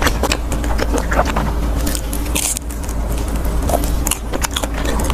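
Close-miked chewing of a deep-fried rice-cake skewer, its crisp coating crunching between the teeth in quick irregular crackles.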